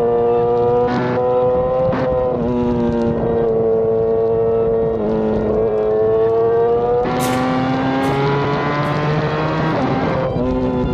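BMW S1000RR's inline-four engine running at road speed, its pitch drifting a little up and down with the throttle, with a few short breaks. About seven seconds in it turns harsher and brighter for a few seconds, then eases back near the end.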